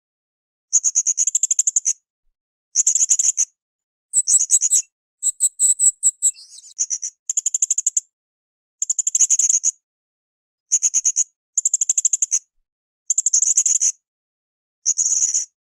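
Blue-crowned hanging parrot (srindit) calling: about nine bursts of rapid, high-pitched chattering trills, each about a second long, with short silent gaps between. Around the middle come a few higher, more varied notes.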